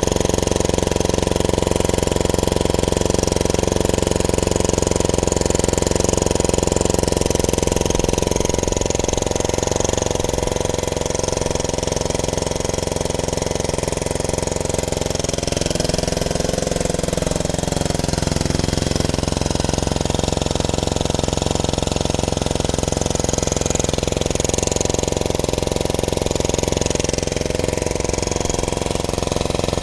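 Honda E40 generator's small four-stroke engine running steadily, its pitch wavering briefly about halfway through.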